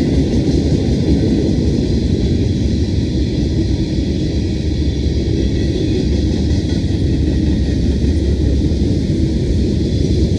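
BNSF train rolling past, a loud steady rumble with no horn.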